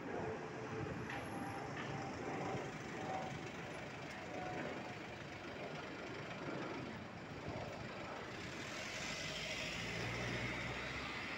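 City street traffic: a steady wash of vehicle noise, with a low engine hum and louder tyre hiss in the last few seconds as a vehicle passes close.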